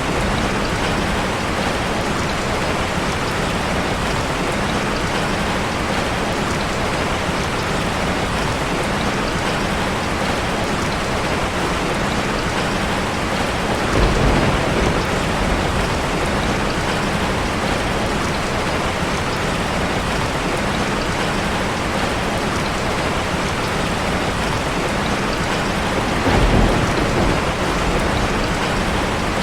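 Heavy rain falling steadily on a car, heard from inside, with two brief low rumbles, one about halfway through and one near the end.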